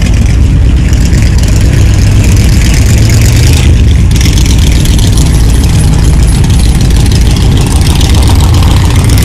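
A car engine idling loudly and steadily close by, overloading the recording.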